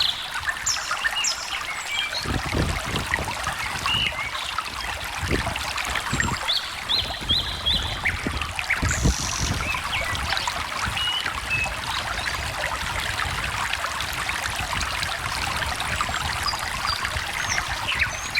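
Small stream trickling and splashing steadily, with birds chirping briefly over it, including a quick run of four short notes about seven seconds in.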